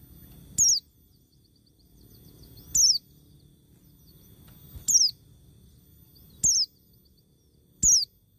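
A bird's call: a short, high note sliding sharply down in pitch, repeated five times at intervals of about one and a half to two seconds, with fainter short chirps in between.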